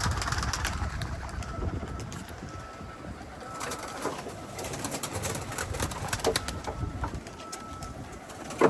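Pigeons cooing in a loft, with scattered fluttering and scuffling, and one sudden loud clap near the end.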